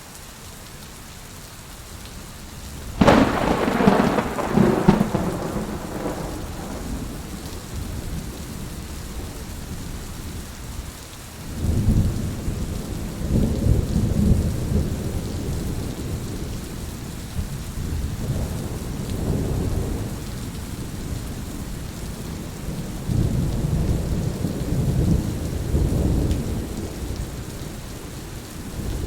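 Heavy rain falling steadily in a thunderstorm. About three seconds in there is a sharp thunderclap that fades over a few seconds, followed by several long, low rolling rumbles of thunder.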